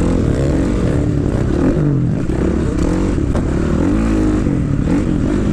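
Dirt bike engine running on a motocross track, its revs rising and falling repeatedly over a steady low rumble.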